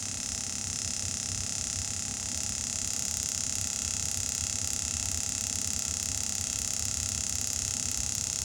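Steady hiss of compressed air filling a car tire on its rim, over a fast low pulsing, growing slightly louder about two seconds in. The pressure is still low, about 19 to 25 psi, and the bead has not yet popped into place.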